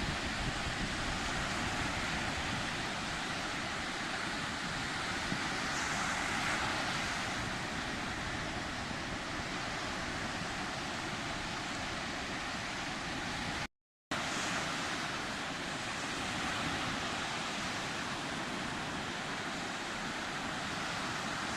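Sea surf: a steady wash of breaking waves that swells and eases slowly, cut by a brief moment of complete silence about two-thirds of the way through.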